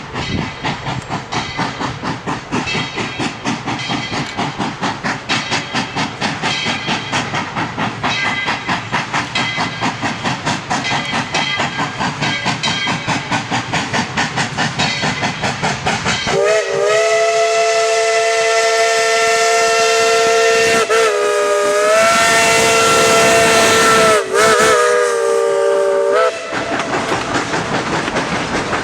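Narrow-gauge 4-6-0 steam locomotive ET&WNC No. 12 working, its exhaust chuffing in a fast, even beat. About halfway through its whistle sounds one long blast of several notes at once, dipping in pitch twice before it stops, and the chuffing carries on after it.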